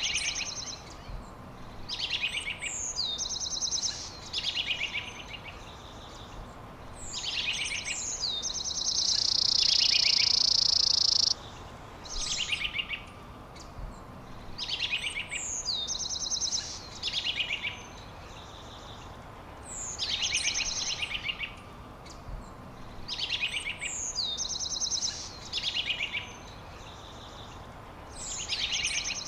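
A songbird repeating a short high phrase every two to three seconds: a quick downward whistle followed by a rapid trill. About eight seconds in, a loud steady high-pitched buzz runs for roughly three seconds and cuts off suddenly.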